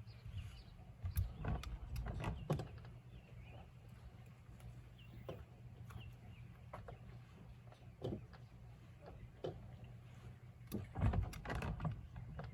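A few sharp knocks and clatters in two clusters, about a second in and again near the end, over a steady low hum.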